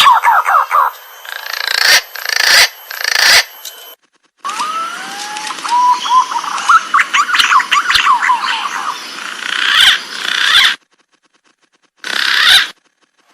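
Green pigeon (punai) calls: whistled notes gliding up in pitch and rapid chattering. They come in several spliced segments that stop abruptly, with short silent gaps between them.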